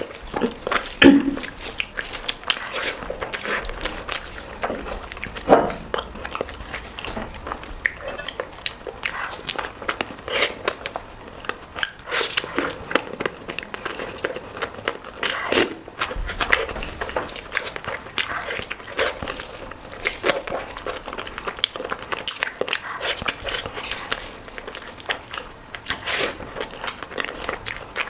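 Close-miked eating sounds: a person chewing food with wet smacks and many short, sharp clicks, the loudest about a second in and again near six seconds.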